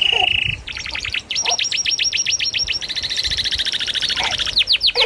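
A baby bird chirping in fast, high, evenly spaced runs of about ten chirps a second, with a short unbroken trill near the start.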